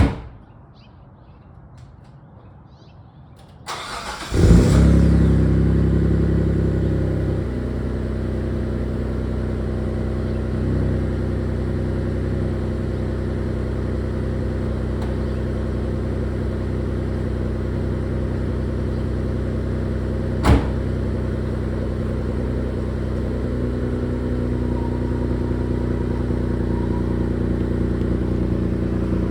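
Mitsubishi 3000GT VR4's twin-turbo V6 cranking and catching on a cold start about four seconds in, running fast at first, then settling a few seconds later into a steady cold idle. A sharp click at the very start and another about twenty seconds in.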